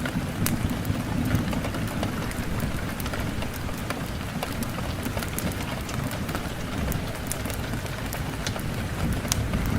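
Steady rain, with scattered sharp ticks of drops over a low rumble that swells slightly just after the start and again near the end.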